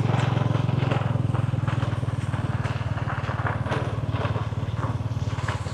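A small engine running steadily, slowly growing fainter.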